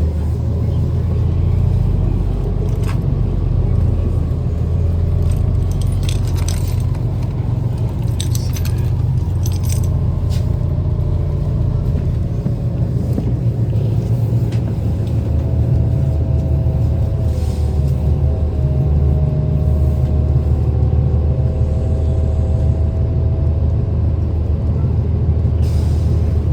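City transit bus running, heard from on board: a steady low engine and road rumble, with loose fittings rattling and jingling now and then in the first half. A faint steady whine comes in over the second half.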